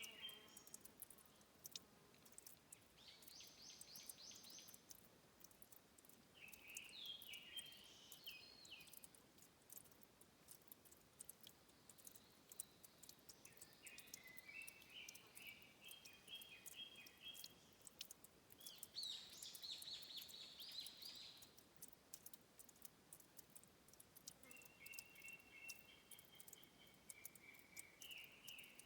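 A songbird singing short, quick phrases about five times, several seconds apart, over faint ticking and pattering from water trickling at a stream's source.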